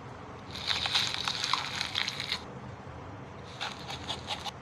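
A horror-category stock sound effect playing back: a crackling, crunching noise of many rapid clicks in two stretches, the first about two seconds long, the second about a second, near the end.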